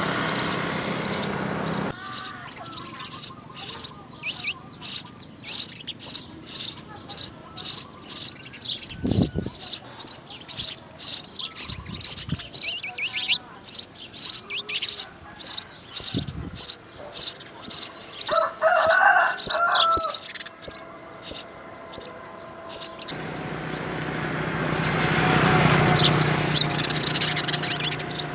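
House sparrows chirping in a quick, even run of short high chirps, about two to three a second. A rushing noise swells in near the end, under the chirps.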